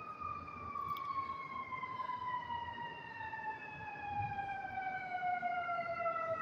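Emergency vehicle siren sounding a slow wail: its pitch peaks at the start, then falls steadily for about six seconds before turning to rise again at the very end.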